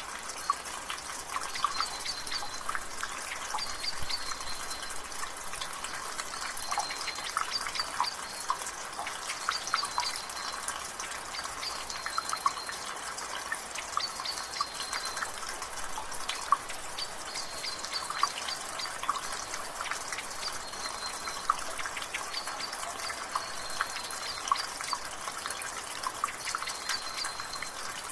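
Rainwater dripping and splashing from a gutter over a steady patter of drizzle, with irregular sharp drips throughout. In the background a bird repeats a short high call about every two seconds.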